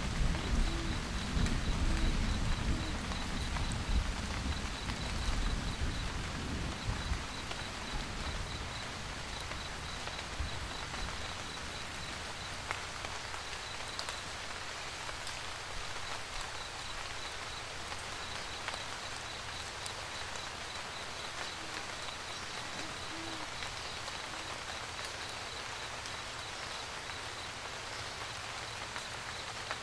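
Steady rain pattering, with a low thunder rumble that dies away over the first several seconds. A faint high regular ticking runs underneath, and there are a few soft low hoots: three in the first few seconds and one more about 23 seconds in.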